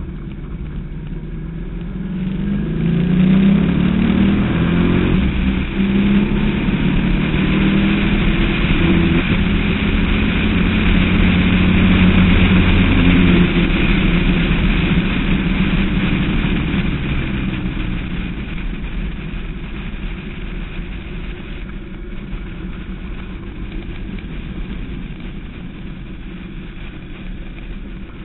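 Westfield SEight's Rover V8 engine heard from the cockpit, accelerating hard with its pitch climbing through the gears in the first few seconds, running loud at high revs, then easing off after about sixteen seconds.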